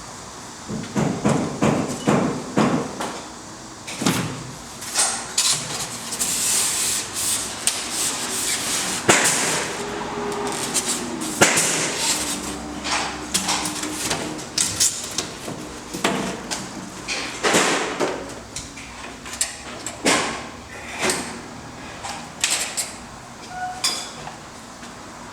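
Hand work on a wall frame during insulation fitting: irregular knocks and taps, with a stretch of scraping and rubbing about a quarter of the way in.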